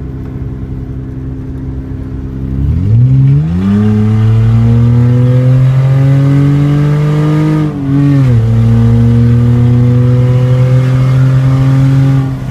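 2006 Hyundai Sonata V6 with its mufflers, resonator and catalytic converter removed, accelerating hard through an open exhaust. The engine note jumps up sharply about three seconds in and climbs steadily, dips briefly at an upshift about eight seconds in, then climbs again before dropping off near the end as the throttle is lifted.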